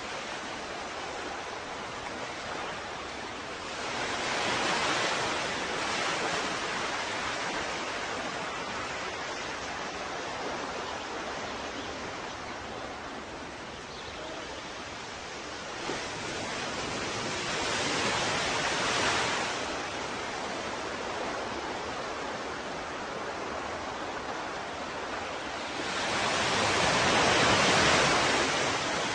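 Ocean waves: a steady wash of surf that swells louder three times, each surge building and fading over a few seconds as a wave breaks.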